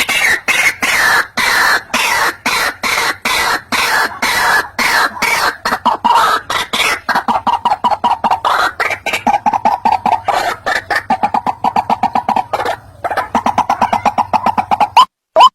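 White-breasted waterhen calling: a fast, continuous run of harsh repeated notes. Near the end it switches to a few louder, sharper notes at about two a second.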